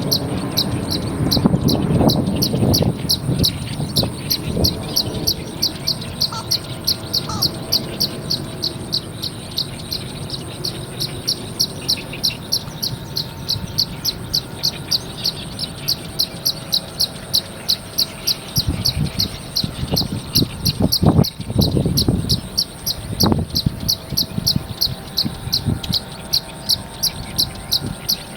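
An insect chirring in steady pulses, about three to four a second, with a few short bird notes and low rumbles near the start and again about two-thirds of the way through.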